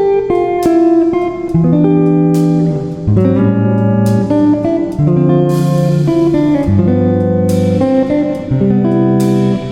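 Guitar music: sustained plucked and strummed chords, changing about every second.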